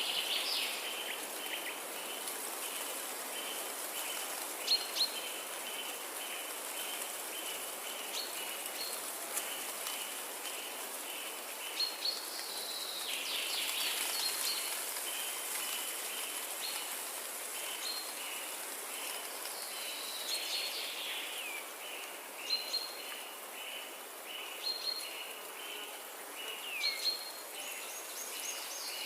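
Forest ambience: birds chirping and calling over a steady run of short, evenly repeated high notes, with a few downward-sweeping calls and a faint high hiss in the background.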